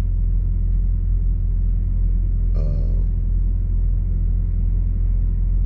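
Steady low rumble, even in level throughout, with a brief short vocal sound about two and a half seconds in.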